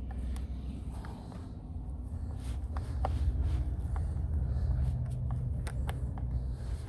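Footsteps through brush, with scattered small snaps and clicks over a steady low rumble of wind or handling on the microphone.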